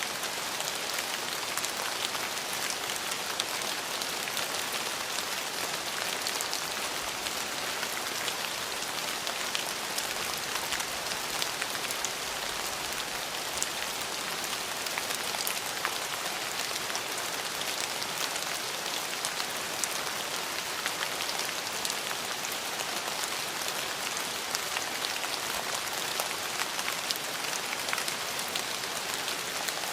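Steady rain falling, an even hiss with many fine individual drops ticking through it.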